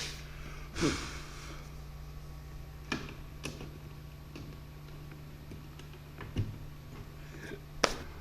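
A few short, sharp clicks and knocks of tools and small parts being handled during a pet-door install, over a steady low hum.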